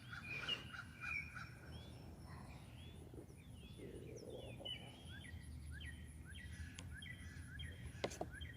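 Small songbirds chirping and calling, a busy run of short, quick chirps and whistled notes, faint.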